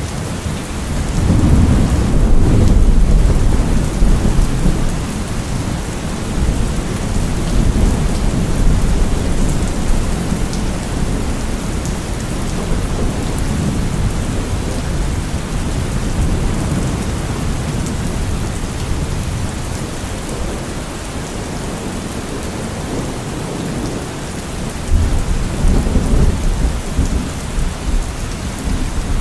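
Steady rain with thunder rumbling: a long rumble swells about a second in and lasts several seconds, and another rumble comes in near the end.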